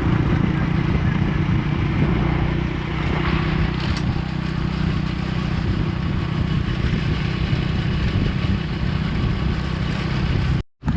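Motorbike engine running steadily while riding, with wind and road noise on the microphone; the sound breaks off for a moment near the end.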